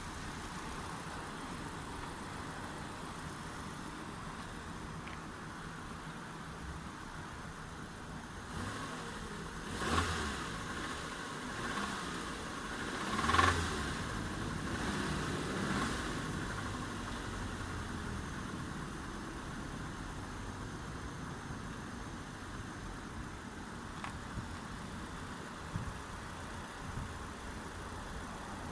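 Car engine running steadily at idle, revved briefly twice: once about ten seconds in and again about thirteen seconds in.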